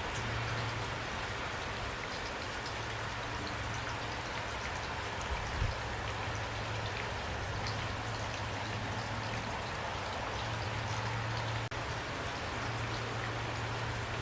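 Steady rain falling: an even hiss with scattered individual drops ticking through it and a steady low rumble underneath.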